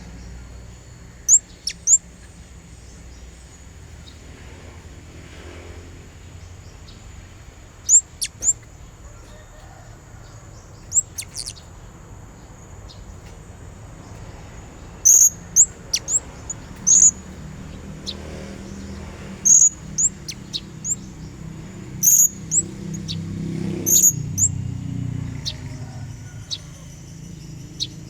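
Blue-crowned hanging parrot (serindit) giving short, sharp, high-pitched chirps, singly and in quick clusters of two to four, a lure call used to draw rival birds. A low rumble swells in the background in the second half and fades near the end.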